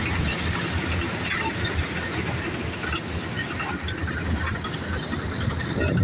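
New Holland combine harvester running steadily, a continuous engine and machinery drone.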